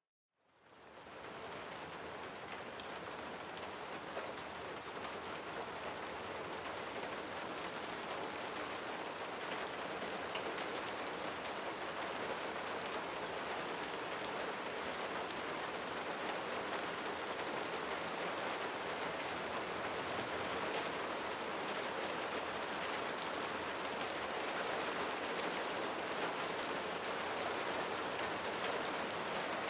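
Steady rain falling, a dense hiss with fine patter of individual drops. It fades in from a moment of silence at the very start, then holds steady, growing slightly louder.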